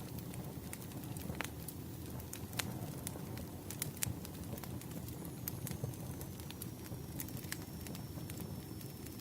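Campfire burning: a steady low rumble of flames with sharp, irregular crackles and pops of burning wood. About halfway through, a faint thin high whistle sets in and drifts slowly lower.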